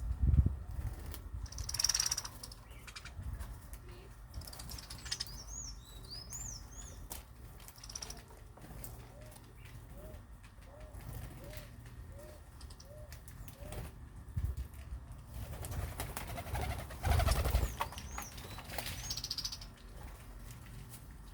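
Birds calling, with short high chirps a few times and a run of low, evenly repeated notes at about two a second in the middle, over bursts of wing flapping and rustling, the loudest near the start and about two-thirds of the way in.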